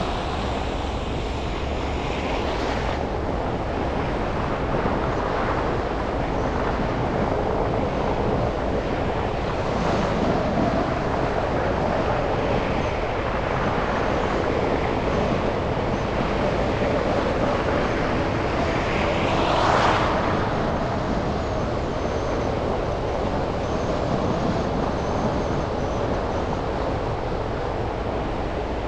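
Steady road and traffic noise from a car driving through city streets, with vehicles passing close by; the loudest pass swells up and fades about two-thirds of the way through.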